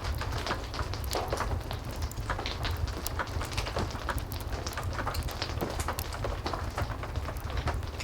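Heavy rain with a fireplace crackling: frequent irregular pops and snaps over a steady rush and low rumble.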